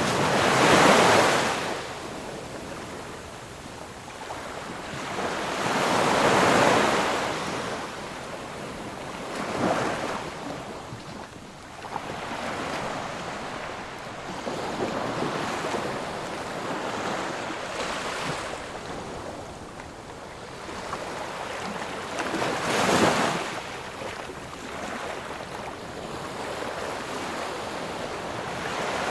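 Sea surf: waves breaking and washing ashore in slow surges every few seconds, with a steady hiss of water between them. The biggest surges come right at the start and at about six and twenty-three seconds in.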